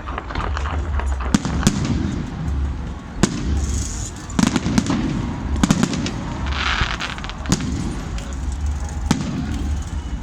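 Fireworks display: aerial shells bursting in irregular sharp bangs every second or two, with crackling between them.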